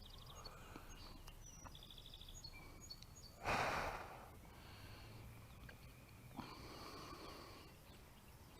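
Faint riverside ambience with small birds singing short trills and buzzy phrases. Halfway through, a person gives one loud sigh close to the microphone, with a softer breath a few seconds later.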